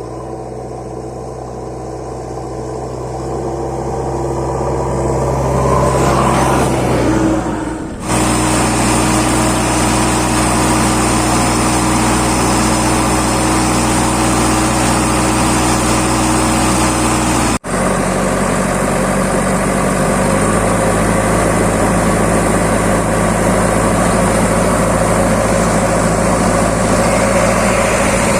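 Diesel engine of a backhoe loader running steadily and loudly, building up over the first few seconds. The sound breaks off briefly about eight seconds in and again near eighteen seconds, then carries on.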